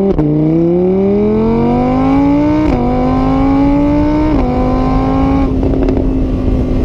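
A vehicle engine accelerating through the gears: its pitch climbs, drops a step at a gear change about three seconds in and again a second and a half later, then holds nearly steady at high revs.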